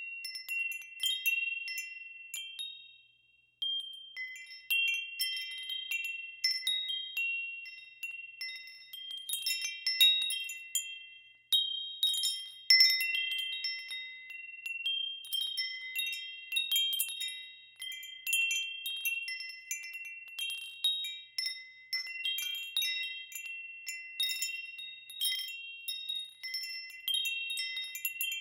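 Wind chimes ringing in the wind: several high bell-like notes struck at random in clusters, each ringing out and fading, with a short lull about three and a half seconds in.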